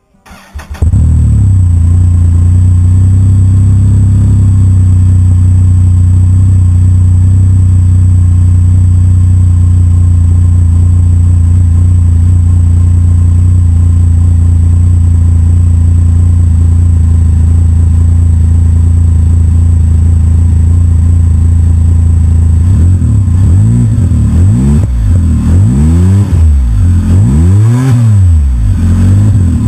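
Can-Am Spyder RT-S roadster's Akrapovič sports exhaust, idling steadily, then revved several times near the end, each blip rising and falling in pitch.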